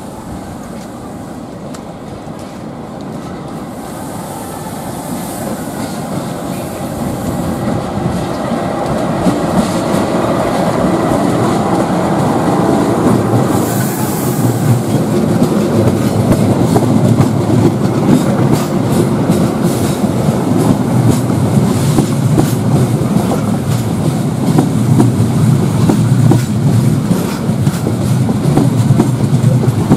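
Passenger train hauled by a CC 206 diesel-electric locomotive approaching, growing louder over the first dozen seconds. Its coaches then roll past with a steady clickety-clack of wheels over the rail joints.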